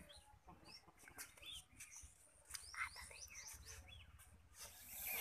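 Small birds chirping faintly in the background, many short scattered calls, with a brief rush of breathy hiss near the end.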